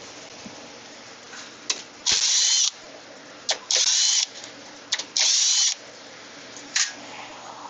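A power drill driving out sheet-metal panel screws in three short whirring bursts, with sharp clicks in between.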